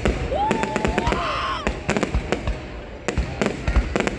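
Fireworks bursting overhead in quick, irregular succession: sharp bangs and crackles over a continuous low rumble.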